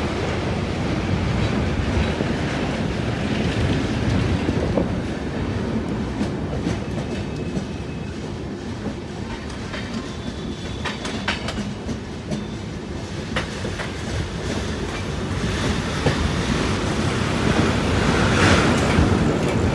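MEMU electric passenger train running at speed, heard from aboard: a steady rumble of wheels on rail with clickety-clack from the rail joints. There are a few sharp clicks about ten to thirteen seconds in, and the sound swells louder near the end.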